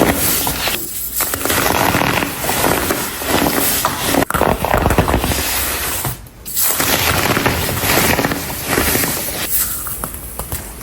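Dried, coloured baking soda being crumbled and crushed by hand, a dense crunching crackle. It breaks off briefly about a second in and again past the middle.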